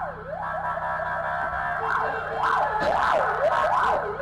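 Police car siren sweeping rapidly up and down in pitch. About two seconds in it switches from a stretch of steadier held tones to a fast yelp of roughly three sweeps a second. A low steady vehicle hum runs underneath.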